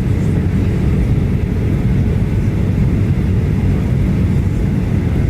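Steady low rumble of a Boeing 737-800's cabin noise, the CFM56 engines and airflow heard from inside the passenger cabin.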